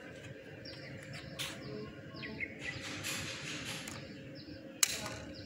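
Small birds chirping: a series of short, high, falling chirps over faint background hiss, with one sharp click near the end.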